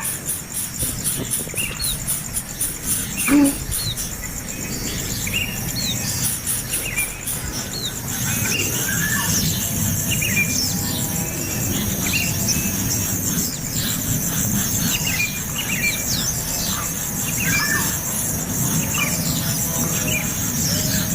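Nestling birds chirping: many short, high, squeaky calls one after another, over a steady high pulsing buzz.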